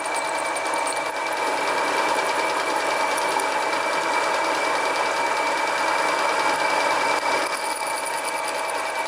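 Home-built mini lathe running steadily, its 1 hp electric motor and spindle turning with a steady high whine over a mechanical hum.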